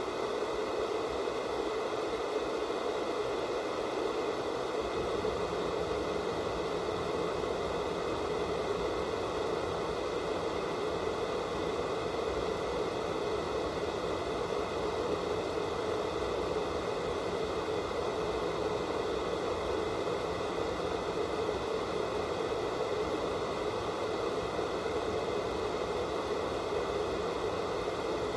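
Steady static hiss of an analog TV with no signal, an even rushing noise, fullest in the lower middle, with faint steady tones in the upper range.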